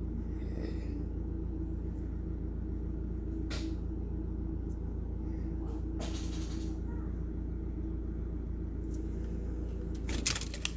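A work vehicle's engine running steadily, a low hum with a constant drone, heard from indoors. A few clicks and handling bumps near the end.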